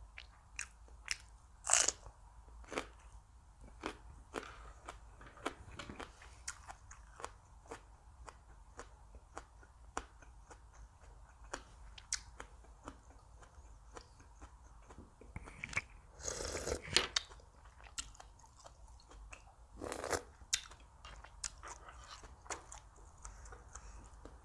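A person chewing and biting crunchy food close to the microphone, with many small wet clicks and louder crisp crunches about two seconds in, around the middle of the second half, and again a few seconds later.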